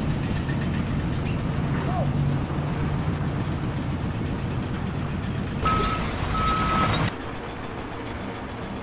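A heavy vehicle's engine running steadily, with two short high beeps, like a machine's warning beeper, a little before six seconds in; the engine sound drops away suddenly about seven seconds in.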